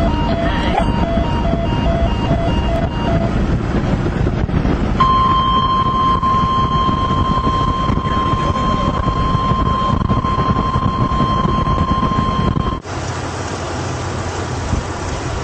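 Weather radio alert sounding a tornado warning over the road rumble of a vehicle. It starts as a pulsing two-note beep for the first three seconds, then becomes a single steady high tone from about five seconds in. Near the end the tone and rumble cut off abruptly to a quieter steady rush.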